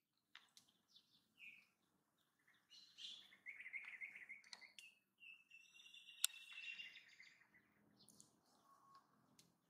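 Faint chirping and trilling of small birds: scattered short calls, busiest in the middle stretch. There is one sharp click about six seconds in.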